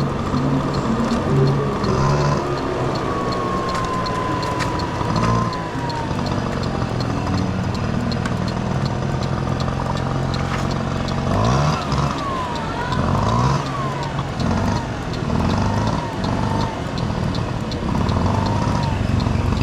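Honda Dio AF18 scooter's single-cylinder two-stroke engine running while riding, its pitch rising and falling several times in the second half as the throttle is opened and eased off.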